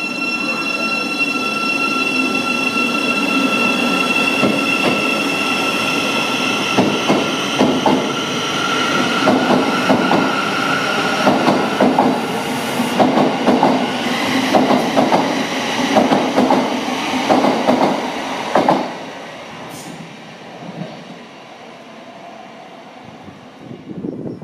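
A Thameslink Class 700 electric multiple unit pulling out of the platform. Several high, steady whining tones sound over a rumble, then rapid clicking from the wheels over the rail joints and points as the carriages roll past. The sound drops away suddenly about 19 seconds in.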